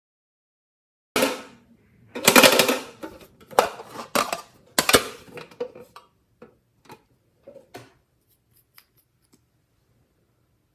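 Slime being squished and worked by hand: irregular sticky squelches and crackling pops that start about a second in, are loudest over the next few seconds, then thin out to scattered small clicks.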